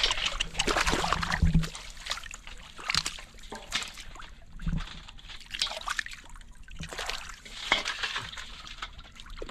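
Water sloshing and splashing in irregular bursts, a busy run of splashes in the first second and a half, then single splashes every second or two.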